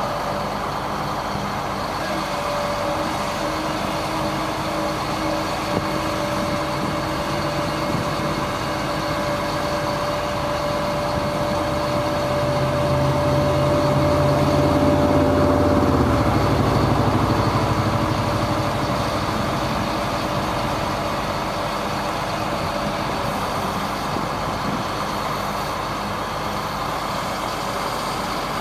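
1999 GMC digger truck's engine running steadily, with a thin steady whine through the first half. About halfway through the engine sound swells louder and deeper for a few seconds, then settles back to idle.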